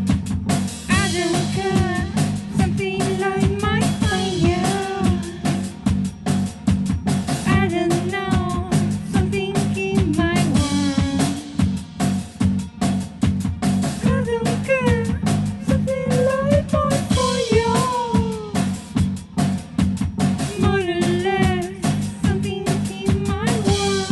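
Post-punk song played on electric bass and drum kit, with a woman singing in phrases over a driving bass line and busy snare and kick drumming.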